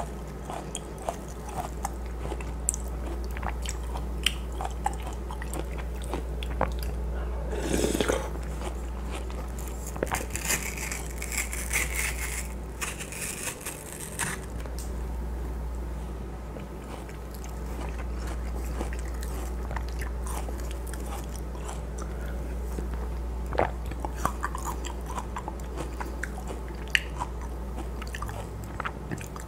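Close-miked chewing and biting of juicy watermelon flesh, with many small wet crunches and clicks. A wooden spoon scoops flesh from the rind, and a steady low hum runs underneath.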